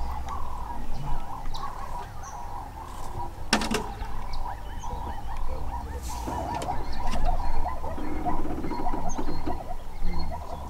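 Wild bird calls over a steady low rumble, with a brief rattle of clicks about three and a half seconds in.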